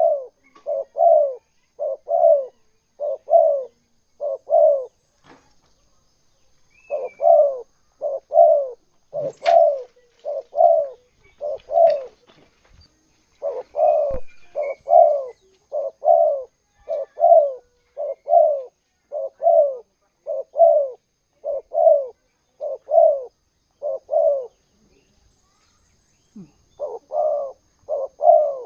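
Spotted dove (tekukur) cooing: a long series of short, low coos in quick succession, nearly two a second, pausing twice, about five seconds in and near the end. A faint higher chirp comes twice, early on and about twelve seconds in.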